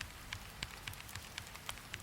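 Computer keyboard being typed on, sharp key clicks about four a second, over a steady hiss of rain.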